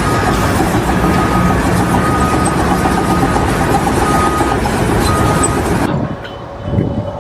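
Loud, steady mechanical noise that cuts off abruptly about six seconds in, giving way to a quieter sound with a brief loud knock near the end.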